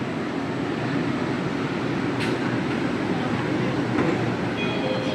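Cabin noise of a Shenzhen Metro Line 3 CRRC Puzhen Type B train running between stations: a steady rumble, with one sharp click about two seconds in.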